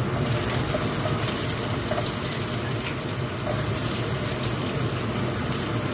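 Chopped onion and garlic sizzling in hot oil in a frying pan: a steady, even hiss.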